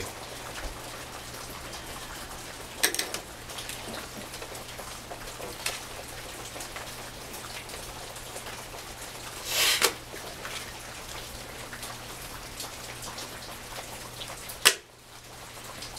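Steady rain falling, with a few brief scratching noises of a pencil and marker writing on small notepads, and a sharp click near the end.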